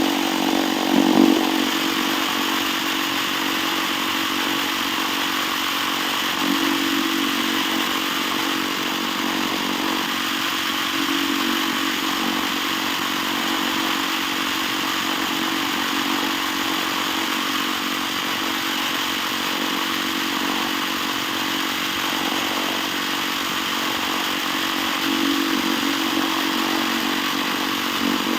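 Cheap Chinese-made engine held at wide-open throttle, running steadily at high revs, with a few brief surges in pitch and level.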